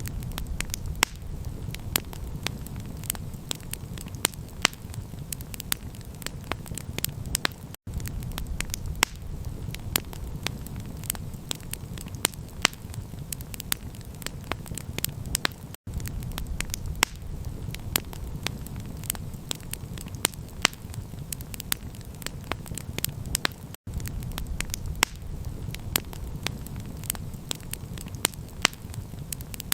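Wood campfire crackling, with frequent sharp irregular pops over a steady low rumble. The sound cuts out for an instant about every eight seconds.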